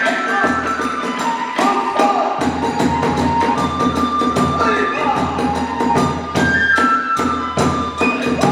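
Hiroshima kagura hayashi music: a bamboo transverse flute (fue) playing a stepped melody over quick, steady strokes of drums and small hand cymbals.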